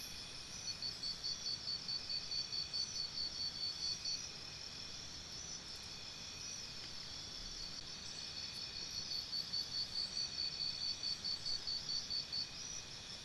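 Crickets chirping: a steady high insect trill with two runs of rapid pulsed chirps, about six or seven a second, each lasting around three and a half seconds.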